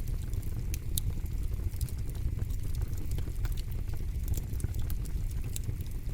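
Campfire burning: a steady low rumble under irregular sharp crackles and pops from the burning wood.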